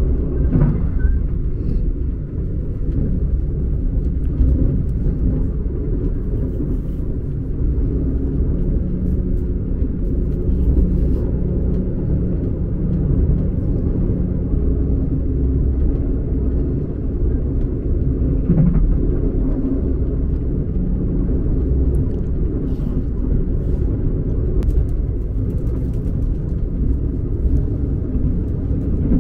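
Steady low rumble of a moving passenger sleeper train, heard from inside a closed cabin. A few faint light clicks come from a plastic fork and tub.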